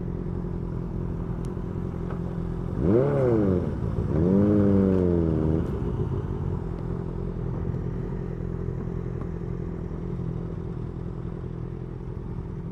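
Honda CB650R's inline-four engine idling, revved twice: a quick blip up and down about three seconds in, then a slightly longer rev about a second later, settling back to a steady idle.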